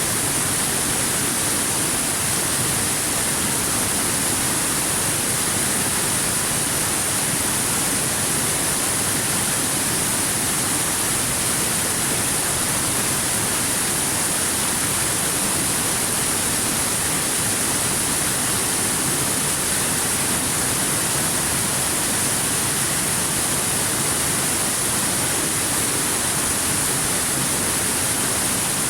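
Steady rush of a waterfall: an even, unchanging hiss, strongest in the high treble.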